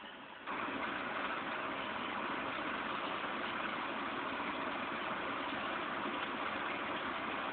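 Heavy rain falling steadily. It gets suddenly louder about half a second in, then holds level.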